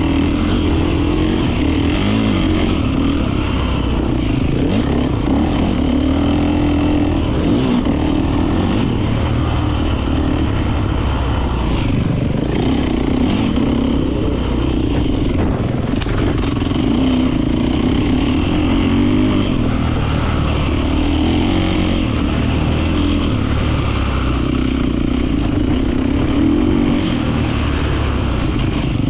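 Beta 450 RX motocross bike's four-stroke single-cylinder engine running continuously on a track, its revs rising and falling over and over as the throttle is opened and rolled off.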